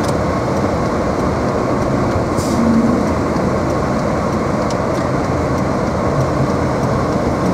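Steady road and tyre rumble inside a moving car's cabin on snowy streets, with the heater fan blowing at a high setting.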